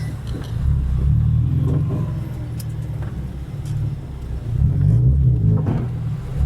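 Car engine heard from inside the car, its revs rising and falling as it is driven, with the revs climbing again near the end.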